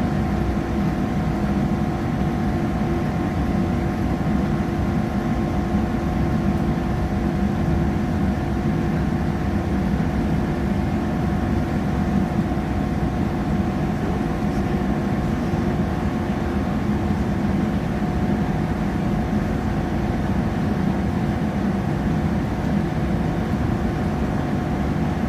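Steady running noise heard from inside a passenger train carriage: a constant low rumble with a steady droning hum, unchanging throughout.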